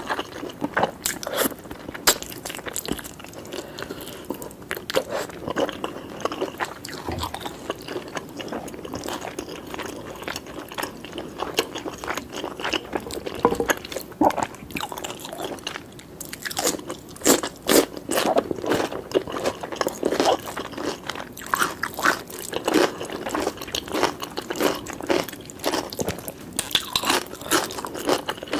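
Close-miked eating sounds: a person chewing and biting into a curry-and-rice meal, a steady run of sharp mouth clicks and smacks, with busier bursts of chewing about two-thirds of the way in and near the end.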